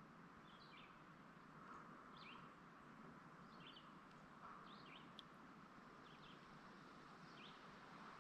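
Faint bird chirping, short high chirps about once a second over a quiet outdoor background.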